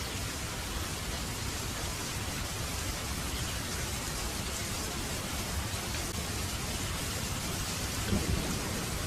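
Heavy rain falling steadily, with a low rumble of thunder underneath that swells slightly near the end.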